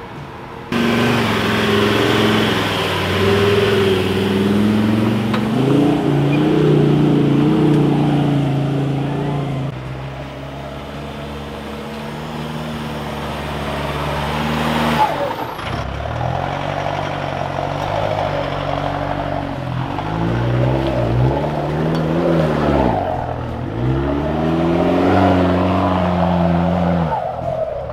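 Four-wheel-drive engines revving hard under load on a steep, slippery clay hill, the revs rising and falling again and again in the second half. A single sharp knock comes about halfway through.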